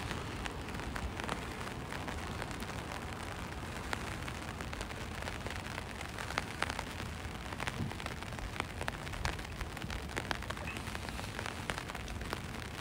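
Light rain falling, with many sharp drop ticks landing close by over a steady hiss.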